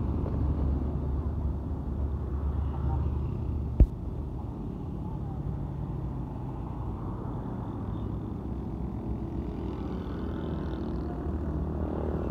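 Truck engine and road noise: a steady low rumble, heavier for the first few seconds, with one sharp click about four seconds in.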